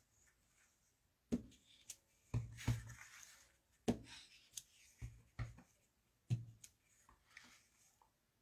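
A small dots rubber stamp being tapped onto an ink pad and pressed onto card stock: about a dozen short, soft knocks against the tabletop at an uneven pace, with light handling of paper between them.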